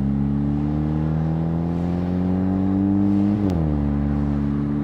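2019 Volkswagen Jetta GLI's turbocharged 2.0-litre four-cylinder, heard through its Neuspeed stainless cat-back exhaust, pulling gently with its note slowly rising. About three and a half seconds in, the pitch drops suddenly as the DSG dual-clutch gearbox upshifts, and the engine then runs steadily at lower revs.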